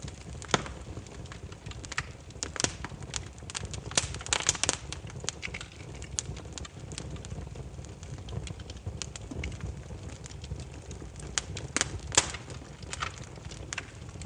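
Burning firewood crackling: irregular sharp pops and snaps over a steady low rumble, with quick clusters of pops about four seconds in and again near twelve seconds.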